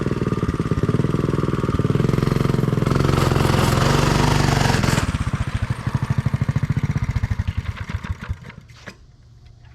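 Coleman mini bike's small single-cylinder engine run hard at high revs while pushing through deep mud. About five seconds in the throttle is let off, and the engine slows to a low putter and fades.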